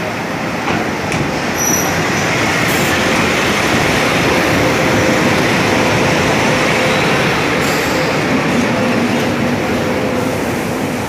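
Bangladesh Railway passenger train rolling slowly into a station platform behind a diesel locomotive: the locomotive passes close, then the coaches roll by with steady wheel-on-rail noise. A brief high squeal comes about two seconds in.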